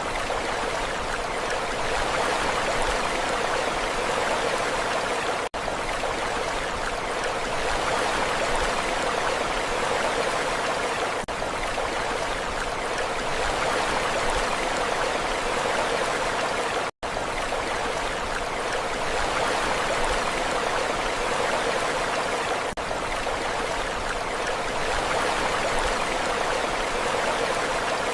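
Steady rushing hiss of sea surf, swelling gently. The sound drops out briefly twice and cuts to silence for an instant about seventeen seconds in.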